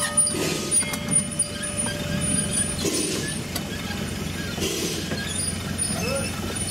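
Two-foot narrow-gauge train of wooden freight cars and a coach rolling slowly on the rails, a steady low rumble with a soft rushing puff about every two seconds.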